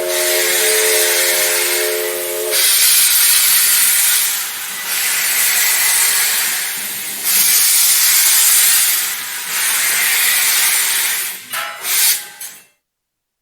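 Steam locomotive: a chime steam whistle's chord ends about two seconds in, over loud hissing steam that rises and falls in long rushes about every two seconds. A few sharp clicks come near the end, and then the sound cuts off suddenly.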